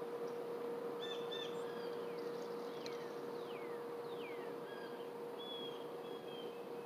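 Wild birds calling: a few quick chirps, then several downward-slurred whistles, then short flat whistled notes. These sit over a steady outdoor hiss and a faint constant hum.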